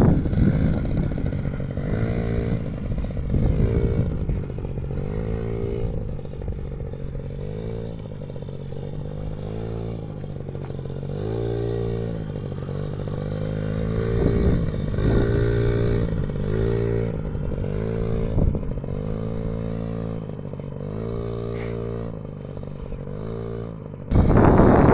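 Yamaha PW50 mini dirt bike's small two-stroke single-cylinder engine being ridden, its pitch rising and falling again and again as the throttle is opened and eased off. A louder, rougher sound starts abruptly near the end.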